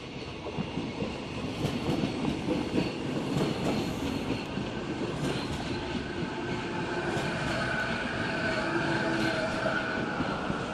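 A Renfe train running past on the track, growing louder over the first couple of seconds, its wheels clicking over the rail joints. A steady high whine rides over the clatter through the middle and later part, easing slightly near the end.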